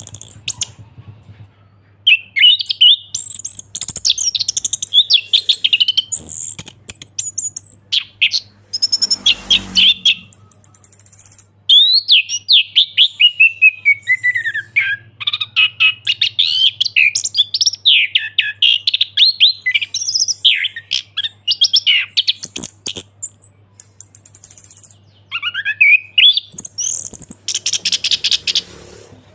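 Orange-headed thrush singing a long, fast, varied song of chirps, whistles and warbled notes in phrases broken by short pauses, with two brief bursts of noise partway through and near the end.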